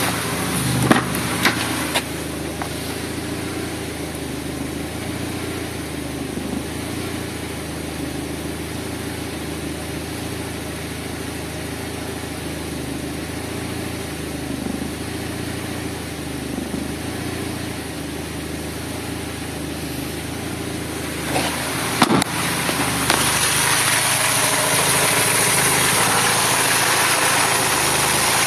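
A 1999 Mazda MX-5's 1.8-litre four-cylinder engine idling steadily. A few sharp clicks come near the start and again about 22 seconds in, after which the engine sound gets louder and brighter.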